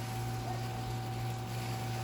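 Steady low hum with a few faint steady tones above it and an even hiss. No thunder is heard.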